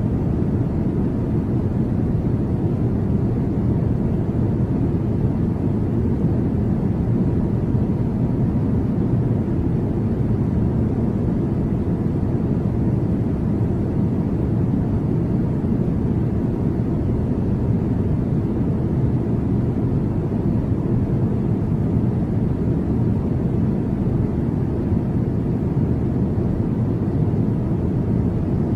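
Steady low rumble of a Boeing 747-400 freighter's jet engines, holding an even level throughout.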